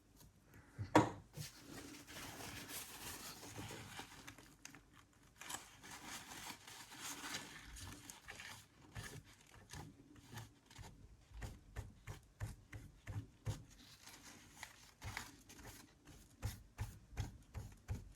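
Paper towel soaked in thermal paste remover rubbing old, hardened thermal paste off a laptop's CPU and GPU chips: faint scrubbing strokes that come more quickly, several a second, near the end, with a single knock about a second in.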